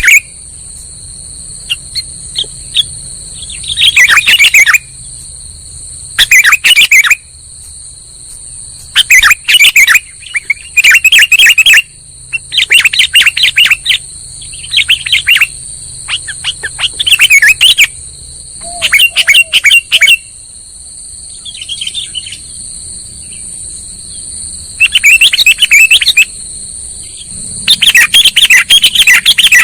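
Sooty-headed bulbul (kutilang) calls played as a bird-lure recording: loud bursts of chirping phrases every second or two, with a few quieter gaps, over a steady high-pitched whine.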